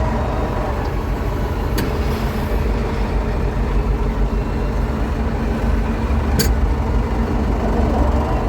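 David Brown 1490 tractor's four-cylinder diesel engine running steadily, with two sharp knocks, one about two seconds in and one about six seconds in.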